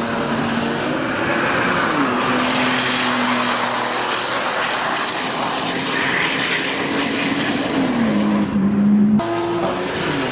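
Porsche 997 Turbo's 3.6-litre twin-turbo flat-six running loud through Milltek straight pipes at speed, its engine note holding and then dropping sharply in pitch a few times.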